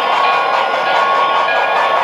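Model steam locomotive's DCC sound decoder through its small onboard speaker: a steady steam hiss with a few faint ringing tones over it.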